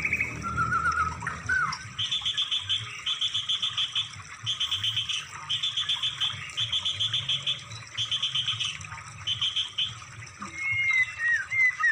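Songbird song played as a masteran training track. A short low trill and a falling note come first, then seven rapid high trills about a second apart, and near the end a few clear whistled slurs. A low hum runs underneath.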